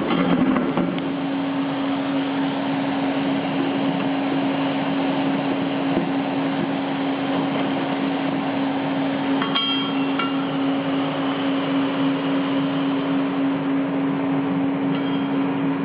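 CNC plasma cutting machine at work: a loud, steady hiss with a constant hum. A brief ringing clink comes about ten seconds in.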